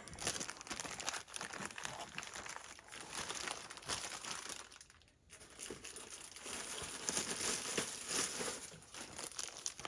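Crinkling of a plastic parts bag being rummaged through by hand, in irregular bursts of rustling with a short lull about five seconds in.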